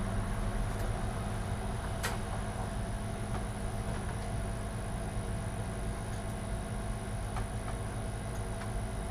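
Steady low hum with a thin high whine, over which small clicks from handling computer case hardware sound, the sharpest about two seconds in.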